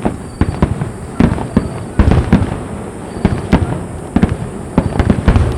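Aerial firework shells bursting in rapid succession, several sharp bangs a second with echoing booms trailing after them.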